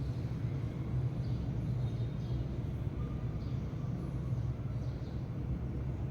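Steady low background rumble with a few faint, short sparrow chirps over it, about one a second.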